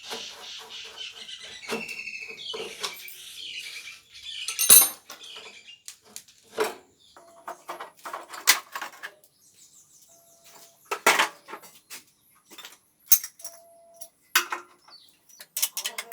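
Irregular metallic clinks and knocks from tools and small metal parts being handled, the loudest about halfway through the first third. There is some high chirping in the first few seconds.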